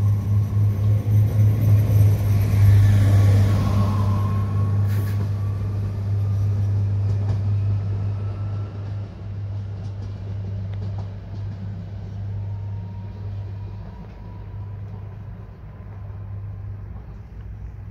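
A bi-mode Bombardier AGC train pulling away from the platform, its steady low drone fading as it moves off. A faint rising whine comes a few seconds in.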